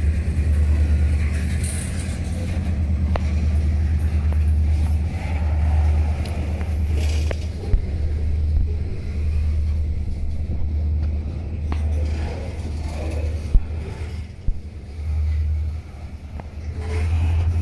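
Freight train of boxcars and covered hopper cars rolling past close by: a steady low rumble of steel wheels on the rails, with a few sharp clicks.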